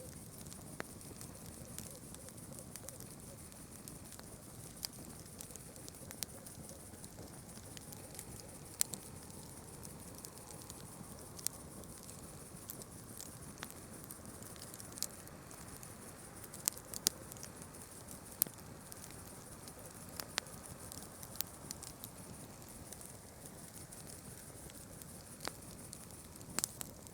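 Campfire crackling: wood burning with sharp, irregular pops and snaps over a steady low rustle, with a constant high-pitched hiss behind it.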